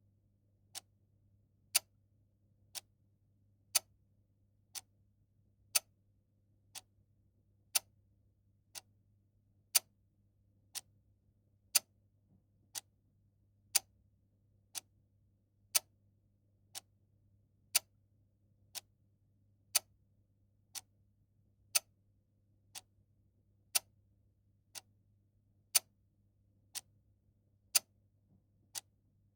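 A clock ticking once a second in a steady tick-tock, each louder tick followed by a softer one.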